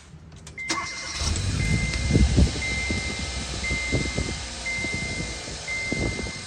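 A 2015 Kia Forte's 1.6 GDI four-cylinder engine starts about a second in and then runs steadily at idle, with its new ignition coils fitted. A dashboard warning chime beeps about once a second throughout.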